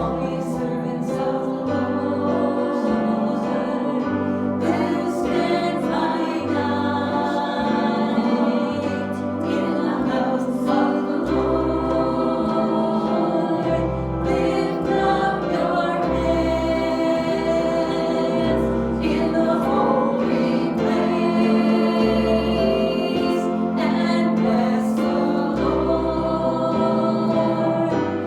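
Congregation and worship band singing a gospel song, with a bass line moving beneath the voices and light drum hits.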